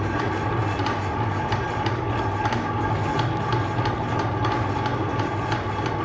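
Electric meat grinder running: a steady motor hum crossed by faint regular clicks about twice a second.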